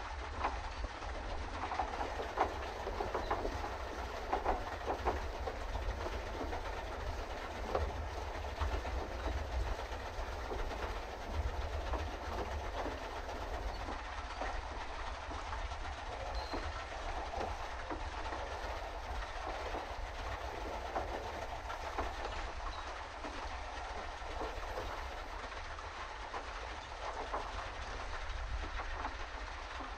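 Pedal boat under way: the paddle wheel and pedal drive churn and rattle steadily with many small clicks, over a constant low rumble.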